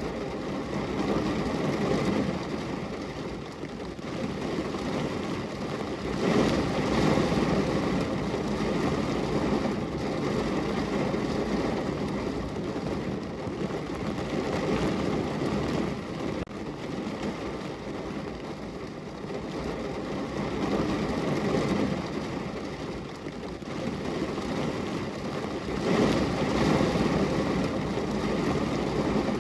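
Steady rain falling on a window, a dense rushing hiss that swells and eases every several seconds.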